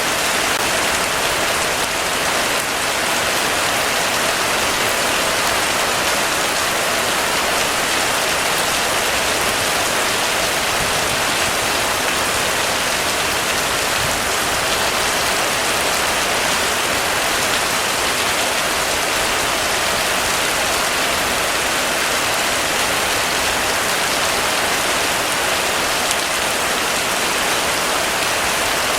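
Heavy, steady rain falling on a surface, an even dense hiss with no thunder.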